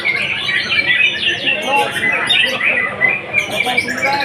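Caged songbird singing a fast, continuous stream of chirps and twittering notes.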